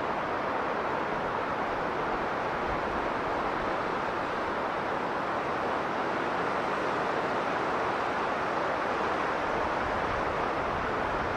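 Strong blizzard wind blowing in a steady rushing roar, with no gusts or breaks.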